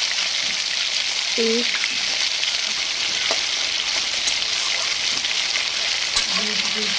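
Masala paste sizzling steadily in hot oil in an aluminium kadai, with a few light scrapes of a spatula stirring it.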